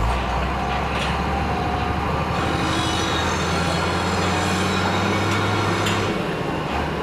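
Heavy vehicle engine running steadily, a low drone that settles slightly near the end, with a few light knocks over it.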